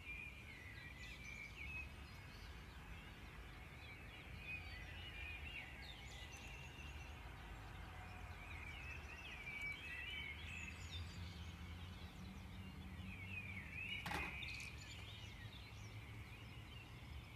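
Birds chirping in many short calls over a faint low steady hum, with one louder sharp call near the end.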